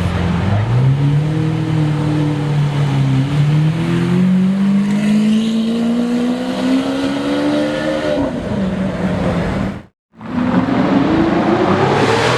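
Lamborghini Aventador SVJ's V12 engine accelerating, its pitch rising steadily for about eight seconds before falling away. After a brief break near the end, an engine rises in pitch again.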